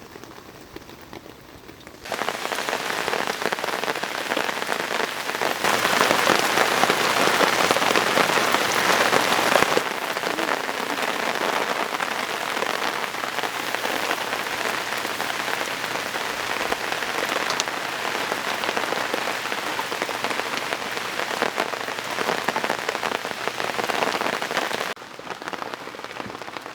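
Rain falling steadily, an even hiss. It gets much louder about two seconds in, is loudest for a few seconds after that, and drops back near the end.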